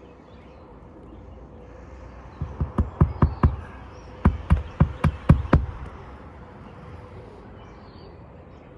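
Hammer driving roofing nails through an asphalt shingle: two quick runs of about six sharp blows each, with a short pause between.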